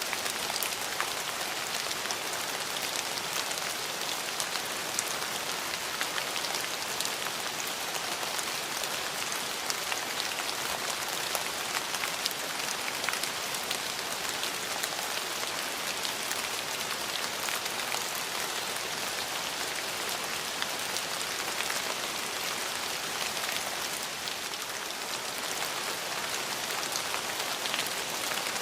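Steady rain falling on hard surfaces, a dense even hiss with many fine drop ticks.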